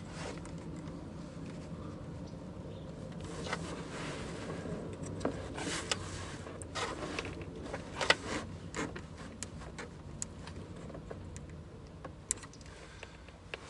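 Fuel line quick-connect clamp being clicked and wiggled off the top of a car's fuel pump basket: irregular small clicks and knocks, most of them in the middle, over a low steady hum.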